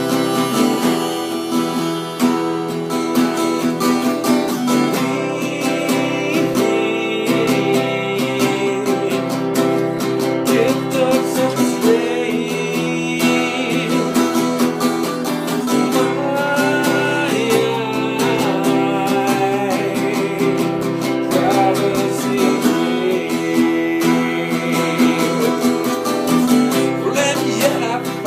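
Acoustic guitar music with a harmonica playing a bending melody line over it.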